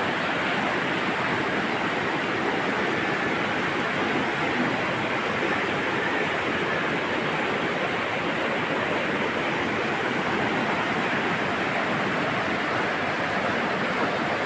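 River water rushing steadily, an even, unbroken noise of flowing water.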